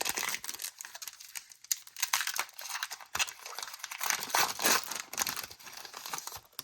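Foil wrapper of a Pokémon trading-card booster pack crinkling steadily as it is handled and torn open; the crackling stops abruptly near the end.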